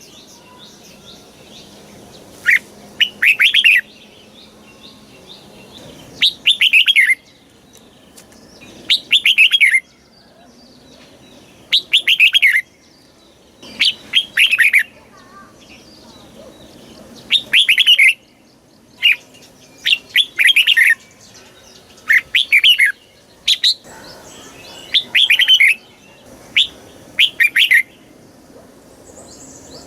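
Red-whiskered bulbul singing: short, quick warbled phrases, each under a second, repeated every two seconds or so.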